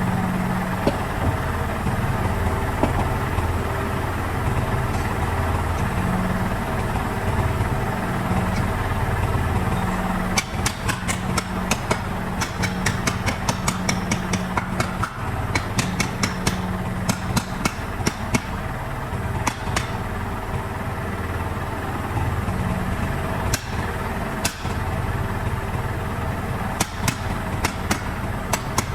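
An engine running steadily at idle. About ten seconds in, a run of quick sharp knocks starts, several a second, and lasts about ten seconds, with a few more knocks near the end.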